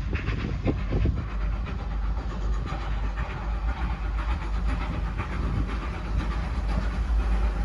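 Steam-hauled train running on the line: a steady rumble of wheels on rail with fine clicking through it, and a few louder knocks about a second in.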